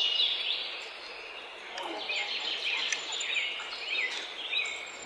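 Many birds chirping, a dense run of short, repeated sliding calls, over a steady outdoor hiss.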